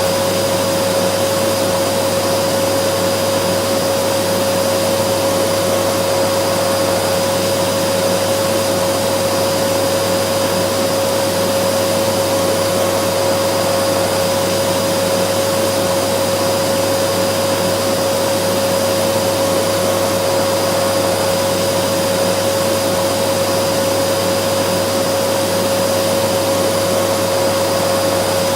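Vacuum cleaner motor running continuously at constant speed: a steady rushing hiss with a steady hum near the middle of its pitch range, unchanging throughout.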